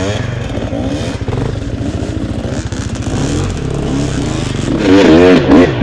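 Off-road motorcycle engine running, its revs rising and falling, growing much louder about five seconds in.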